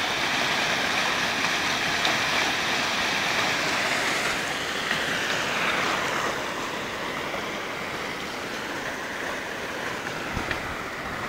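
Steady rushing sound of water, easing slightly about halfway through.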